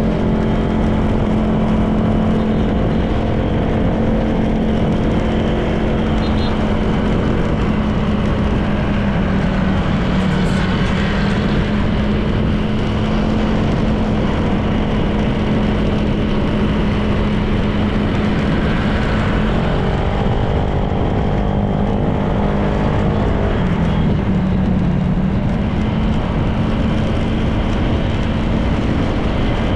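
Honda PCX 160 scooter's single-cylinder engine running steadily under way, with wind and tyre noise. The engine pitch dips briefly and recovers twice, about two-thirds of the way through and again a few seconds later, as the throttle is eased.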